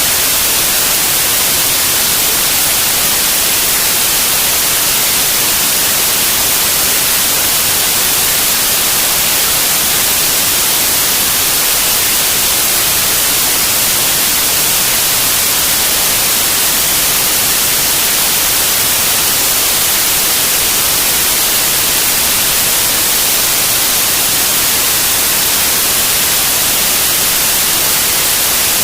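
Steady, loud static hiss from a CB radio receiver with its squelch open on an empty channel.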